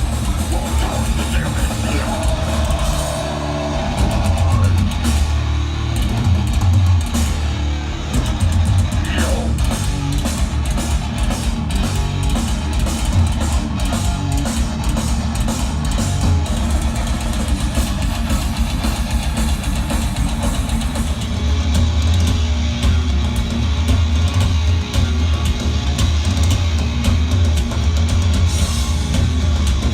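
A heavy metal band playing live at full volume: distorted electric guitars over a drum kit.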